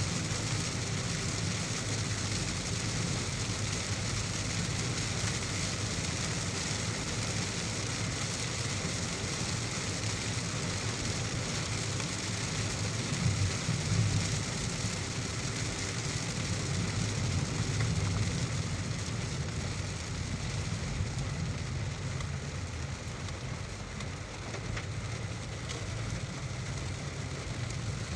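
Heavy rain hissing steadily over the low rumble of a car driving on a wet road, with a brief swell about halfway through.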